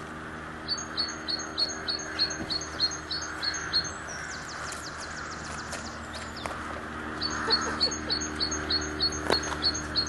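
A small bird chirping over and over, about four high chirps a second, with a buzzy rattling trill in the middle before the chirps resume. A steady low hum runs underneath.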